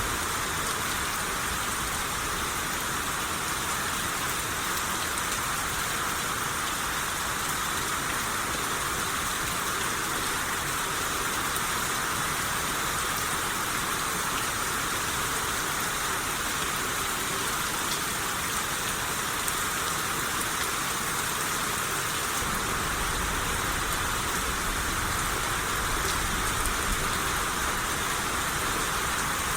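Steady rain showers falling, a dense even hiss. About three quarters of the way through, a low rumble joins underneath.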